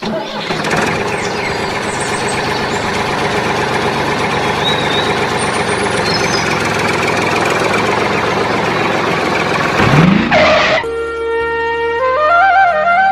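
An engine running steadily for about ten seconds, then cut off by a short rising sweep as music begins near the end.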